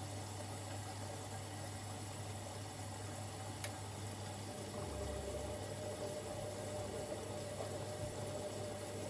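Siemens Extraklasse XLs 140 A front-loading washing machine running early in a Cottons 60°C stains wash, with a steady low hum. A single sharp click comes about three and a half seconds in, and about five seconds in a deeper hum and a steady higher tone join, as a motor or pump changes its running.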